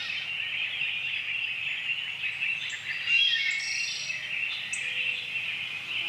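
Many birds chirping and calling at once in a busy, continuous chorus, with a few higher whistled notes mixed in.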